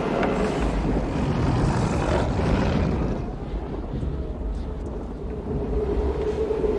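Tornado-strength wind blowing in heavy gusts over a deep rumble, easing about three seconds in and building again, with a steady whistling howl near the end.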